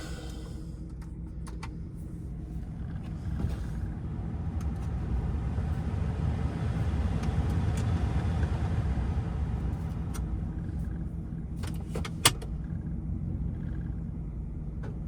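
Roush-supercharged 6.2-liter V8 of a Ford F-150 Raptor running, heard from inside the cab as a steady low hum. A broader rushing noise swells from about four seconds in and eases after ten, and a few sharp clicks come through.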